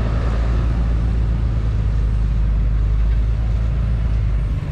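Steady low wind rumble on the microphone with road noise while riding a bicycle.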